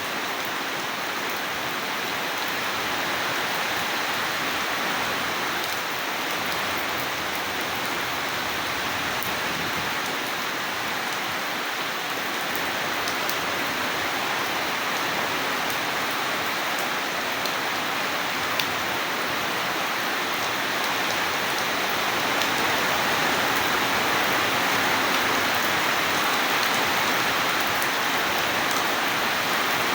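Steady rain falling, an even hiss of many drops that grows a little louder about two-thirds of the way through.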